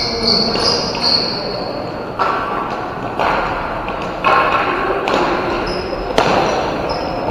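Ball hockey play: a few sharp knocks from sticks and ball, roughly a second apart, with short high squeaks in between.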